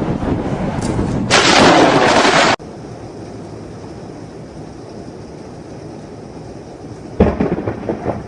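Thunder from close lightning strikes: a loud rumble that swells about a second in and then cuts off suddenly, followed by a quieter spell and a sharp, sudden crack of thunder near the end.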